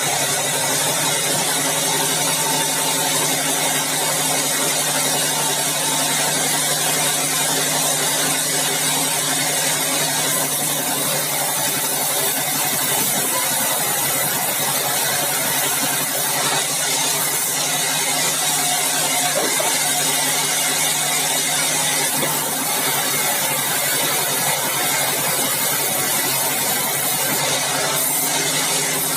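Engine-driven bandsaw mill running steadily, with a constant low drone and hiss and no pauses.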